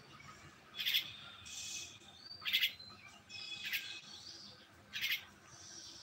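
A bird giving four short, sharp calls, spaced a little over a second apart.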